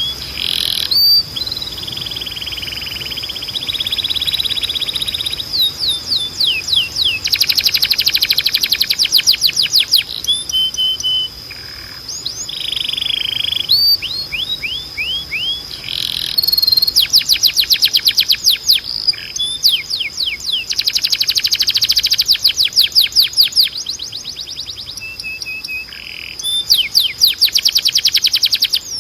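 Domestic canary singing: fast runs of rapid, repeated sweeping notes and trills in phrases of a few seconds each, broken by short pauses, over a thin steady high tone.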